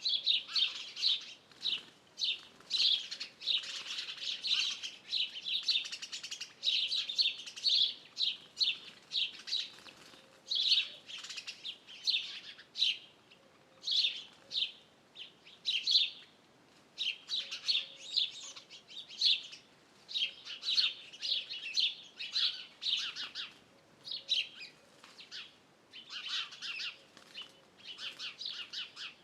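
Birds chirping and twittering in quick runs of short, high notes, several series overlapping with brief gaps between them.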